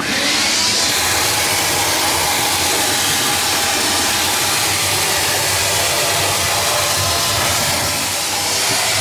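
An electric air-moving tool runs steadily: a loud, even rush of air over a motor hum. It is being used to clear the ice from an iced-up refrigerator freezer.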